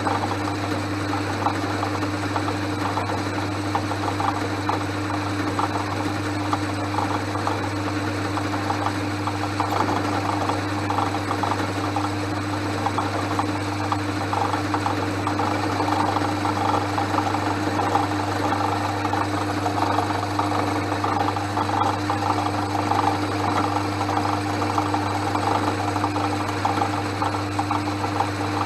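Portass Model S mk2 metal lathe running steadily: a constant low motor hum with a fine, even chattering rattle from the drive and spindle.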